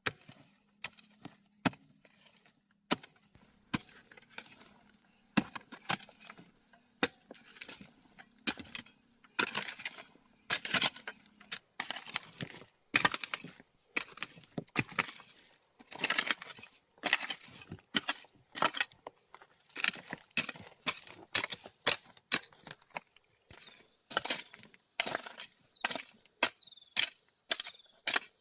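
A hand tool striking and scraping stone, irregular knocks and clinks about one or two a second, each often trailing into a short scrape.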